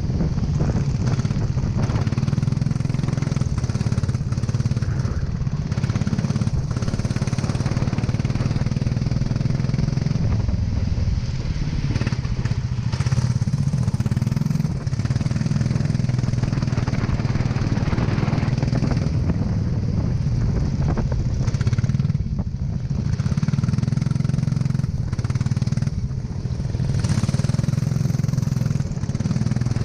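Go-kart engine running hard around the track, its note dropping briefly a few times, as for corners, then picking up again.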